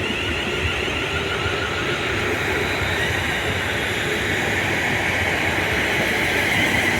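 Passenger train pulling into the platform: a steady rumble that slowly grows louder, with a whine that rises from about two seconds in and then holds.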